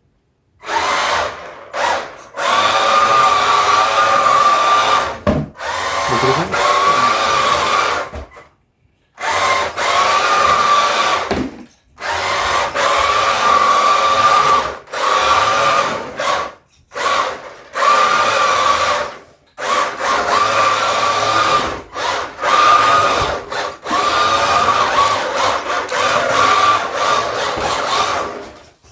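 Cheap RC drift truck's electric motor and gear drive whining under throttle, in repeated spells of one to three seconds that cut out briefly between them as it is driven.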